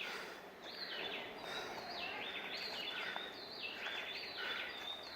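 Forest birds calling over and over, roughly once a second; each call starts high and drops in a quick run of short stepped notes. A faint steady hiss of forest ambience lies underneath.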